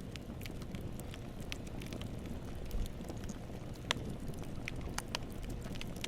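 Campfire burning: a steady low rumble of flames with scattered sharp crackles and snaps from the wood, one louder pop about four seconds in.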